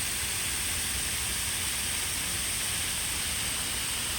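Steady outdoor background hiss with a constant high-pitched whine and a low rumble underneath, unchanging throughout.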